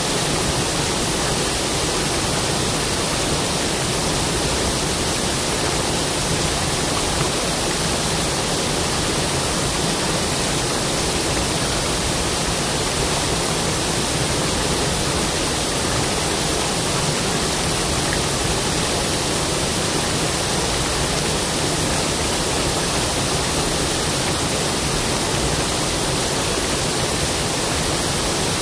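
Waterfall: a steady, unbroken rush of falling water, even from deep rumble to high hiss.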